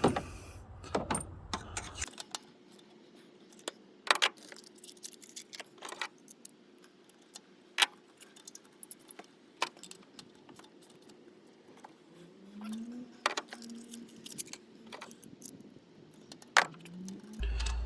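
Metal hand tools clinking and knocking in irregular sharp clicks, from a spark plug socket and ratchet being handled while new spark plugs are fitted to the engine.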